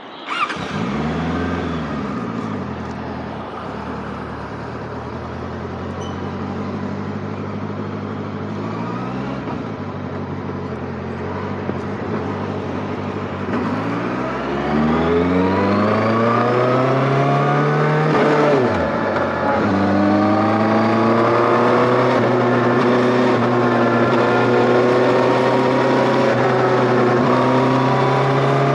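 Motorcycle engine pulling away and accelerating up through the gears. Its pitch climbs in each gear and drops at each shift: about a second in, near ten seconds and near eighteen seconds. After the last shift it rises slowly and gets louder, with wind and road noise underneath.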